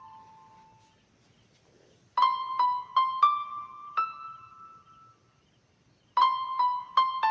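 Background music: two short phrases of single, ringing keyboard notes in a high register, like a tinkling electric piano melody, with a quiet pause between them.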